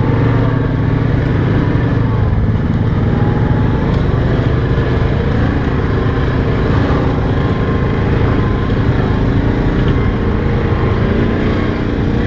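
ATV engine running steadily at trail speed, its pitch rising and falling a little with the throttle.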